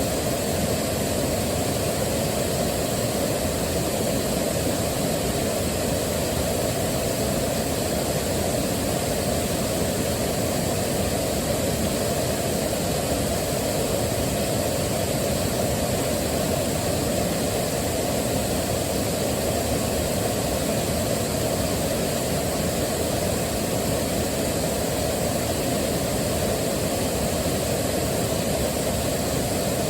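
Steady rushing of a waterfall, a low, even roar of falling water that holds the same level throughout.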